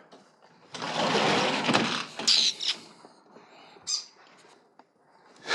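A small bird indoors: a rustle of about a second, like wings flapping, then two short high calls.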